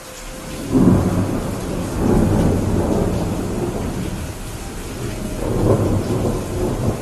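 Thunder rumbling over steady rain: a low rumble breaks in about a second in, swells again near two seconds and once more near six seconds, then eases off.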